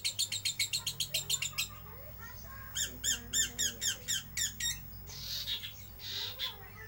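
Lovebird chattering its fast 'ngeriwik' song: a run of rapid high chirps, a short pause, then a second, slower run of chirps, followed by two short raspy noises near the end.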